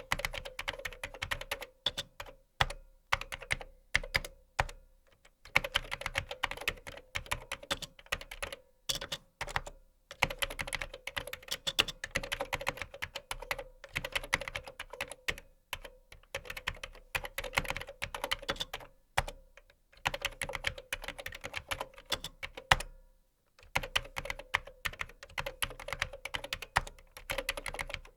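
Fast typing on a computer keyboard: dense runs of key clicks, several a second, broken now and then by brief pauses.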